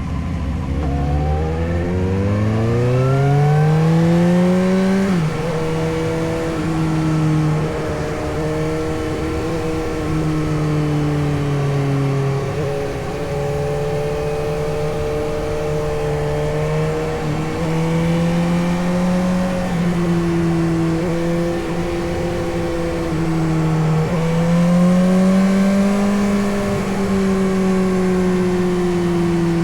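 Suzuki GSX-S750's inline-four engine accelerating, its pitch rising for about five seconds, then dropping abruptly with an upshift and running at fairly steady revs. Near the end the revs rise again and ease off.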